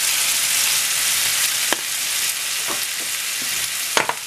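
Diced pumpkin and onion frying in a pan, a steady sizzle, with a few light clicks and knocks, the loudest about four seconds in.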